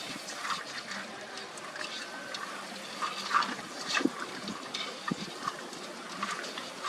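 Water running and sloshing, with irregular clicks and knocks, the louder ones near the middle.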